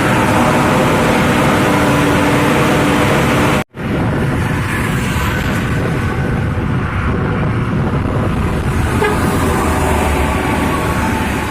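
Heavy-vehicle horns sounding in held, pitched tones over loud engine and traffic noise. The sound cuts out for a split second a little under four seconds in, then the horns and engine noise carry on.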